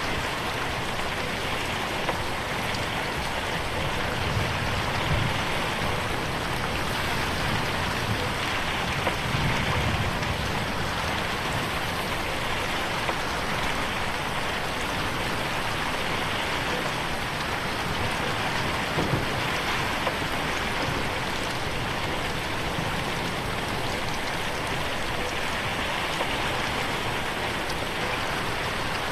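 Steady rain pattering on a window pane, an even rush with scattered individual drop ticks.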